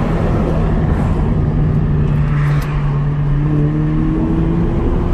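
2019 Honda Civic Sport engine and muffler-deleted exhaust, straight-piped to the stock tip, running with a steady drone. A rising tone joins it about three seconds in as the revs climb.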